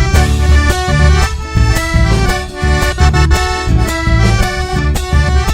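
Instrumental break in a live Argentine chacarera: accordion playing the melody in chords over a steady bass and drum beat, with no singing.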